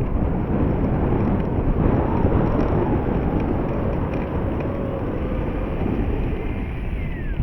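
Heavy wind buffeting the microphone, with the faint whine of the FMS Ranger 1800mm RC plane's electric motor and propeller in flight, its pitch wandering and dropping away near the end.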